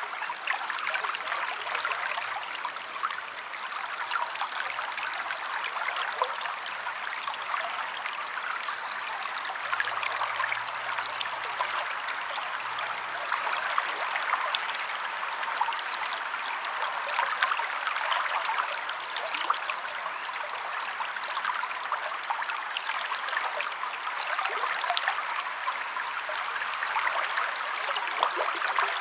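A stream or small river flowing steadily, a continuous rush of water with fine bubbling and splashing. A short, faint, high trill, from a small bird, comes four times in the second half.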